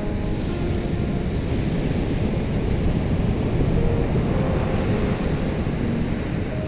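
Ocean waves washing on a shore in a steady, continuous roar of surf that swells a little about halfway through.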